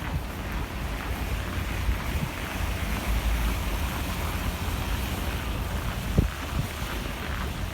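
Wind buffeting the microphone as a low, uneven rumble over a steady hiss of snowstorm wind. There is a single soft thump about six seconds in.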